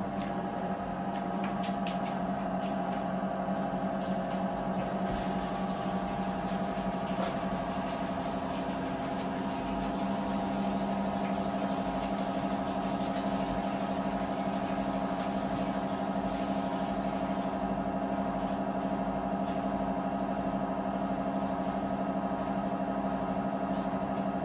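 Steady hum of a laundry machine's motor running, an even drone with a couple of steady tones, with a few faint clicks in the first several seconds.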